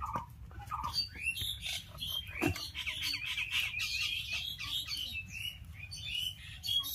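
Small birds chirping and twittering, a dense run of short rapid calls from about a second in until near the end.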